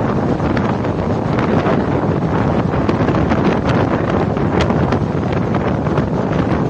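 Steady rushing wind buffeting the microphone over the running noise of a moving train, with a few faint ticks here and there.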